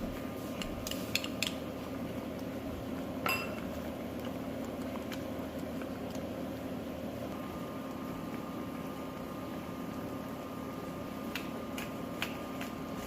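Dishes and utensils being handled in a kitchen: a few light taps, one ringing clink about three seconds in, and more taps near the end, over a steady machine hum.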